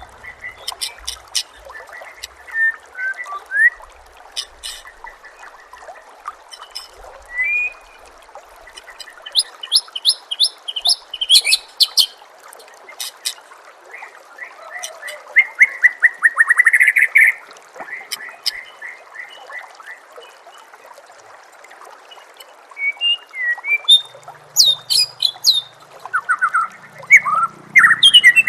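White-rumped shama (murai batu) singing in bursts of varied phrases: sharp clicking notes, whistled glides and a loud rapid trill about halfway through. Under the song runs a constant trickle of flowing water.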